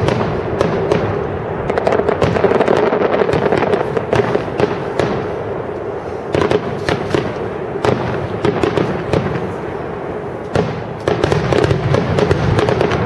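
Fireworks display: aerial shells bursting in a rapid, continuous barrage of bangs and crackling pops, with a quieter lull about ten seconds in.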